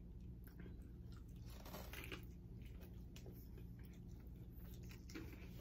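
Faint close-up mouth sounds of two people biting and chewing fried chicken, with a few soft crunches.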